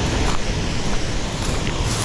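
Steady, loud rush of a waterfall pouring into its plunge pool.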